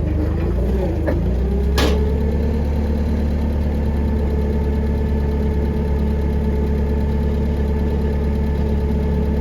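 An engine idling steadily, its pitch sagging briefly and recovering within the first second or so, with one sharp click about two seconds in.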